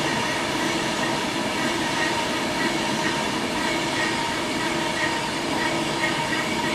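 Class 390 Pendolino electric train passing through the station: a steady, even running noise of wheels on rail, with a few faint steady tones held throughout.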